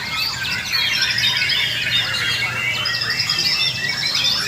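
Many white-rumped shamas (murai batu) singing at once: a dense chorus of overlapping whistles, quick rising and falling notes and trills, with no single bird standing out.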